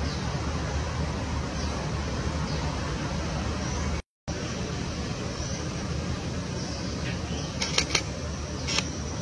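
Steady outdoor background noise, like distant traffic, with faint short high bird chirps now and then and a few sharp clicks near the end. The sound drops out completely for a moment about four seconds in.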